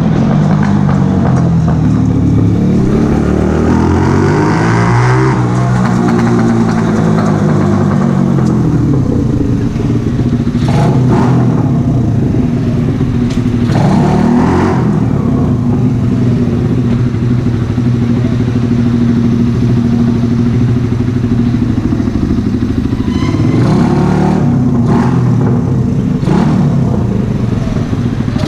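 Mash Cafè Racer 125's single-cylinder four-stroke engine running through a Megaton aftermarket exhaust. The revs rise and fall several times, with a long steady stretch in the middle.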